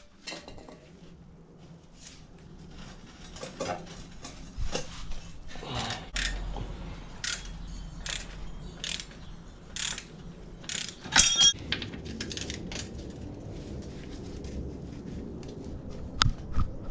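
Hand tools working on the bolts of a BMW E46 subframe: irregular metallic clicks and knocks, with one loud ringing clank about eleven seconds in.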